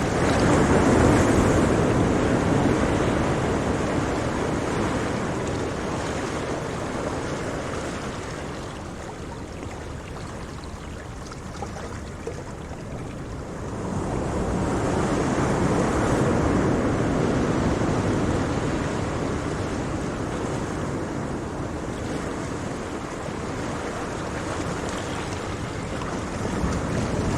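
Sea surf washing on the shore, a steady rushing that swells and ebbs: loud at first, easing off, then building again about halfway through and once more near the end.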